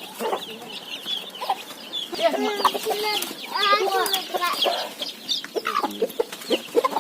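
A brood of young chicks peeping, many short high calls overlapping without pause, with some lower calls in the middle seconds.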